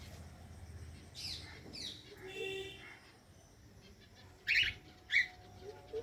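Birds calling: a few short chirps and squawks, the two loudest coming close together near the end.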